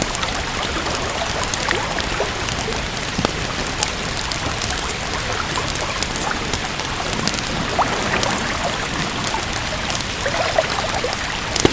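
Steady rain falling, with a wood fire crackling through it in many small sharp pops.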